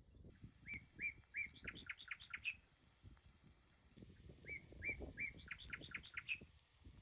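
A songbird singing the same short song twice, about two seconds apart: a few evenly spaced notes, then a quick run of higher rising notes.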